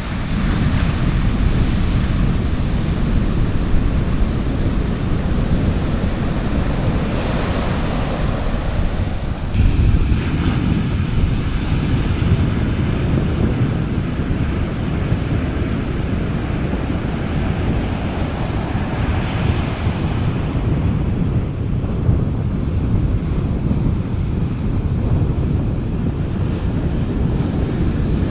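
Sea waves washing onto a beach, a steady surf with a few swells of breaking wash, mixed with low rumbling wind on the microphone; one louder gust about ten seconds in.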